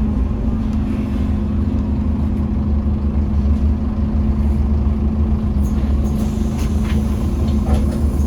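Scania N230UD OmniCity double-decker bus's diesel engine running at a steady pitch, with a few faint rattles in the second half.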